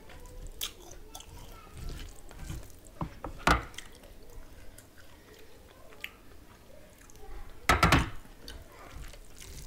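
Close-miked eating sounds of rice and curry eaten by hand: wet chewing and mouth clicks, with two louder wet smacks about three and a half seconds in and again near the end.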